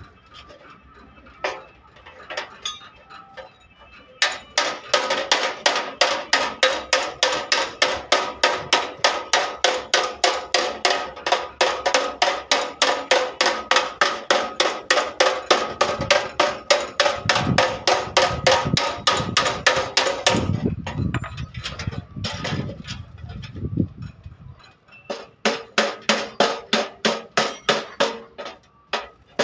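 Hammer beating the sheet-metal body panel of a Tata pickup during dent repair: a fast, steady run of about four ringing metal blows a second, which pauses for a few seconds and then starts again near the end.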